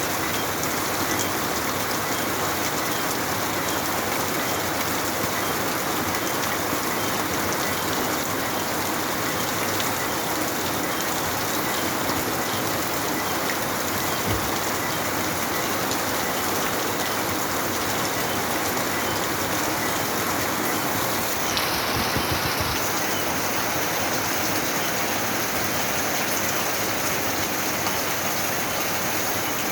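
Steady heavy rain coming down, with crickets chirping in a high, even band over it. About twenty seconds in, part of the insect chorus stops and a higher-pitched one carries on.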